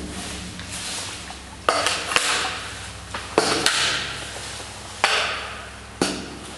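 Kayak paddle strokes: the blade slapping into the water with a sharp knock and a wash of splashing after each, six strokes coming at uneven intervals.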